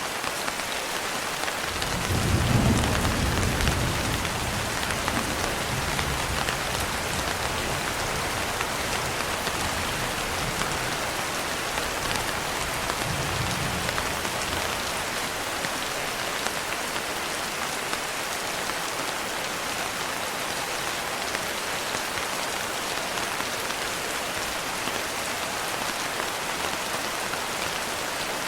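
Steady rain pattering on a window, with a roll of thunder that rumbles up about two seconds in and slowly fades away over the next ten seconds or so.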